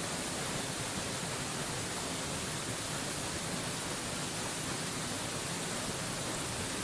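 Mountain waterfall rushing: a steady, even hiss that never changes.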